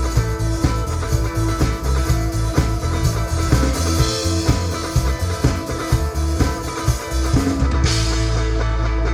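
Rock band playing live with no vocals: a drum kit beating out a steady rhythm under electric guitar and bass guitar. About eight seconds in the cymbal wash drops away and a low bass note holds.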